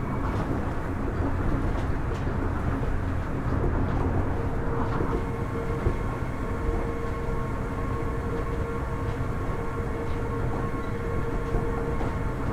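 Kitakyushu Monorail Series 1000 car running steadily on its rubber-tyred straddle beam, heard from inside: a constant low rumble with a steady electric hum from its Hitachi IGBT-VVVF traction drive.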